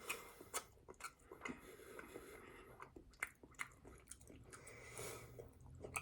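Faint, close-up chewing of a bacon cheeseburger, with irregular wet mouth clicks and smacks.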